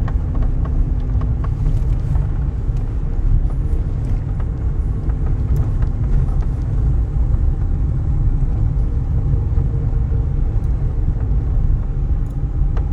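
Car driving at low speed: a steady low road and engine rumble, with a faint engine hum and scattered light ticks and rattles.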